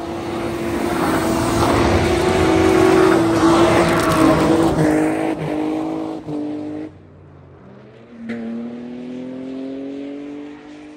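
Car engine held at high revs as the car drifts past on a snowy road, its pitch steady and then stepping, with a rushing noise from the tyres and snow. After a sudden cut, another car's engine revs up farther away, its pitch rising steadily, then fades.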